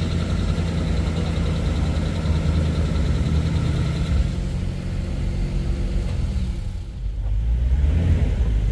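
Classic car engine running at idle. A higher tone over it stops about four seconds in, and the sound dips briefly before swelling again near the end.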